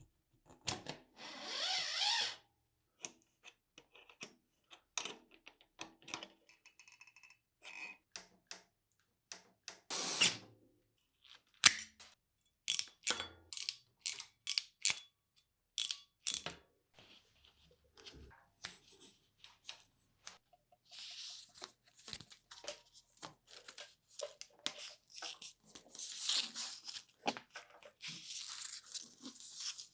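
Scattered clicks, knocks and short rasps of hand tools and metal parts being handled at a workbench, with a brief whirring burst about a second in and a longer rasping stretch near the end.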